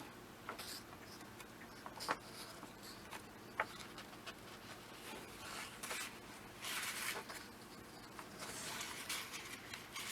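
Pages of a comic book being turned and leafed through: soft paper rustles, louder near the middle and toward the end, with a few light taps.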